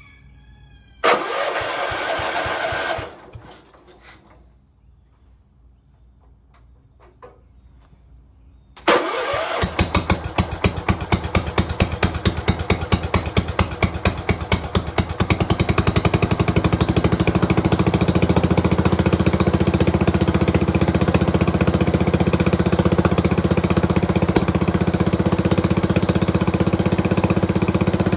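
Kohler Magnum 14 single-cylinder engine on a Cub Cadet garden tractor: a short two-second crank about a second in that does not catch, then cranked again and started near the nine-second mark, firing in separate beats that quicken and settle into a steady run. It is running on its newly fitted gas tank and fuel pump.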